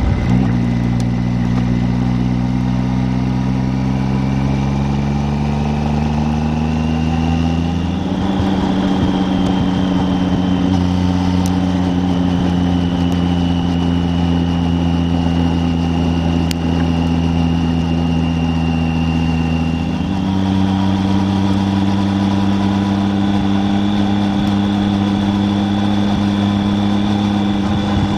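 Triumph Tiger 800's three-cylinder engine under way, its pitch climbing for the first several seconds, then holding steady after a step about eight seconds in, with another step near twenty seconds.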